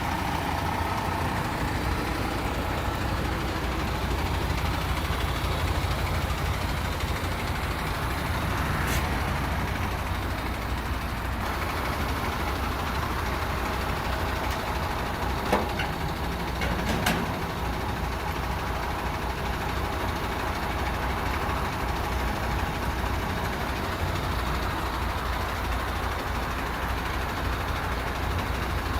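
Tractor unit's diesel engine running steadily at a low rumble. A few sharp clicks sound over it, one about a third of the way in and two close together about halfway.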